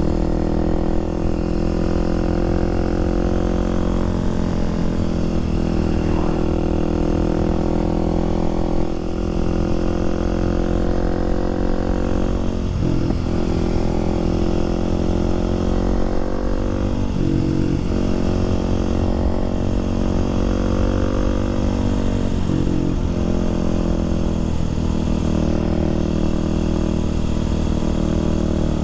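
Kawasaki KLX300SM supermoto's single-cylinder four-stroke engine running under way at steady cruising speed. The engine note drifts up and down in pitch, with short breaks every few seconds.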